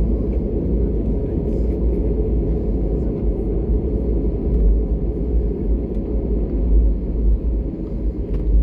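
Steady low rumble of an Airbus A320neo's engines and airflow, heard inside the passenger cabin.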